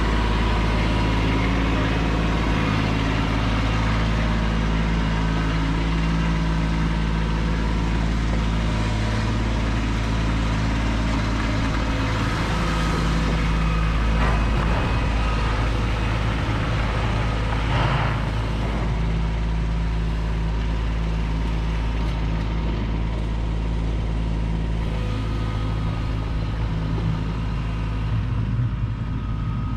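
Kubota B2601 compact tractor's diesel engine running steadily, with a couple of brief clattering sounds in the middle.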